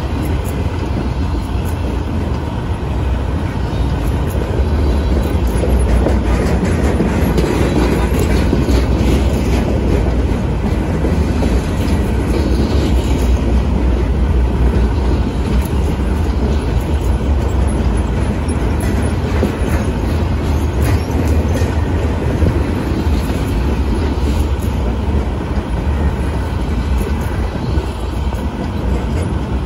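Freight train flatcars rolling past at close range: a steady heavy rumble of steel wheels on rail, with scattered clicks and knocks from the wheels.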